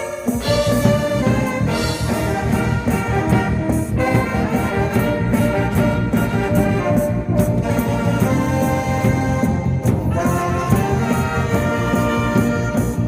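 Live ensemble music led by brass instruments, sustained melody lines over a steady bass.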